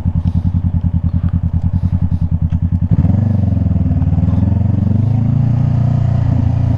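Honda CBR500R parallel-twin engine throbbing at low revs, then about three seconds in it picks up and pulls away, its pitch rising and then holding steady as the bike rides on.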